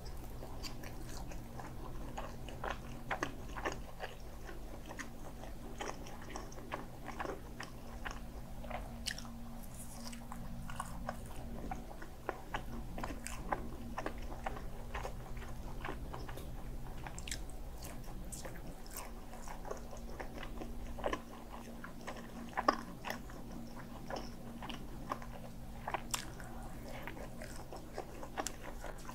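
Close-miked chewing and biting of grilled sausage: many short wet mouth clicks and bites, with a few louder snaps near the middle and toward the end.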